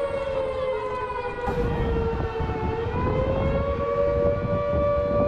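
A warning siren sounding one sustained wail, its pitch sagging slightly in the middle and climbing back, over a low rumbling noise.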